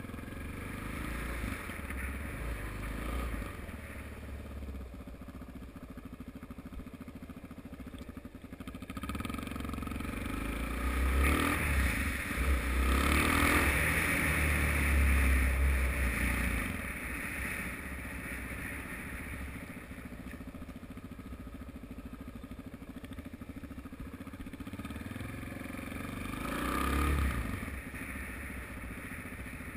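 Suzuki DR-Z single-cylinder motorcycle engine running while riding at low speed, heard from the rider's helmet. It gets louder for several seconds about a third of the way in, as if opened up, and swells briefly again near the end.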